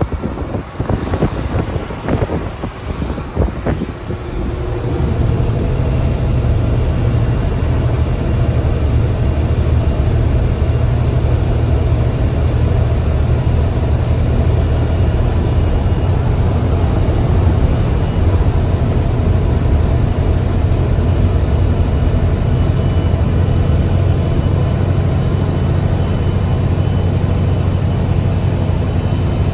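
Mercedes-Benz bus engine heard from the driver's cabin: irregular thumps for the first few seconds, then a steady deep drone that swells about four to five seconds in and holds under load.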